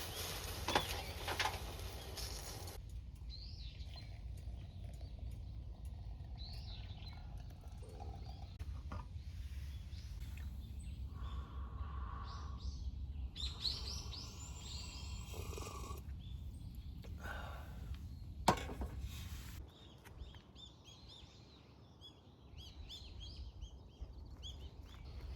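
Small birds chirping and calling in short repeated notes, over a low steady rumble that fades away about twenty seconds in. A sharp knock sounds once, about eighteen seconds in.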